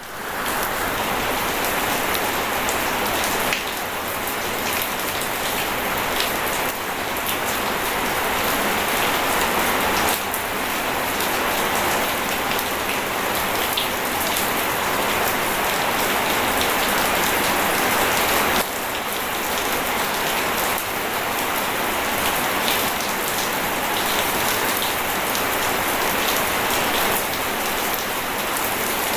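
Steady, dense rush of rain and running water, a continuous hiss with a few faint drip-like ticks.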